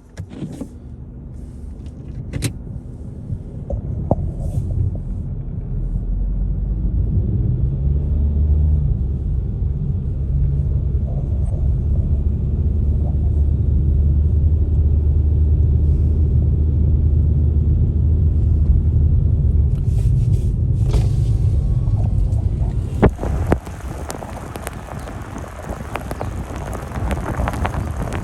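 Motor vehicle's engine rumbling low and steady, building over several seconds. It eases off about twenty-three seconds in, giving way to a hissing noise.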